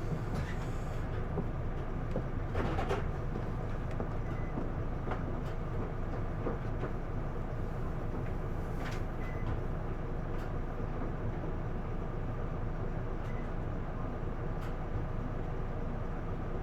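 Isuzu Erga city bus heard from inside the cabin while under way: its diesel engine and road noise run steadily, with a few light clicks and rattles here and there.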